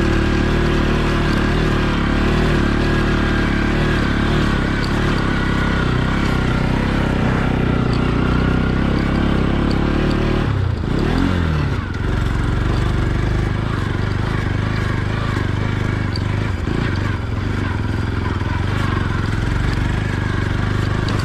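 Motorcycle engine running steadily while riding. About halfway through, the revs dip and then pick up again.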